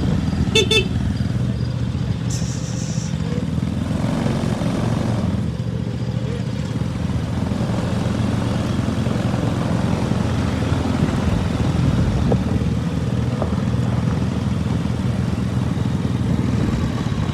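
Small gasoline engine running steadily under way, a continuous low drone. A short high beep sounds about half a second in.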